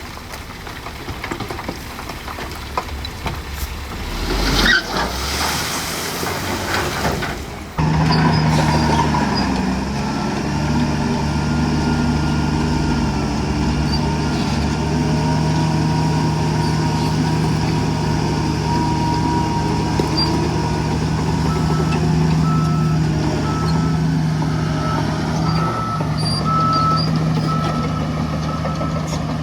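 Heavy diesel machinery at work: a noisy rattling rush for the first several seconds, with a louder hiss-like surge about four to five seconds in. The sound then changes abruptly to a heavy diesel engine running steadily, and near the end a reversing beeper sounds repeatedly.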